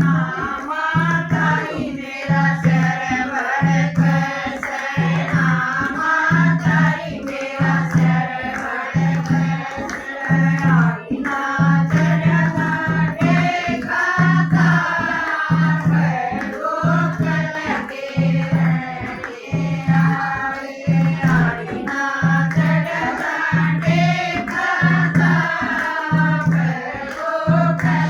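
Devotional Hindi/Haryanvi bhajan singing by a group of voices, with a steady low drum beat about one and a half times a second underneath.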